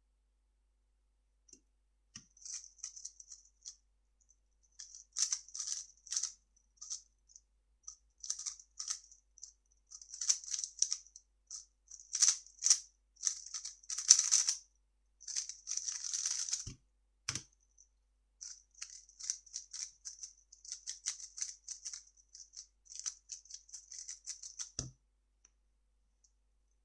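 3x3 speedcube being turned fast: rapid plastic clicking and rattling of the layers in bursts with short pauses, and a few dull knocks about two thirds of the way through and again near the end.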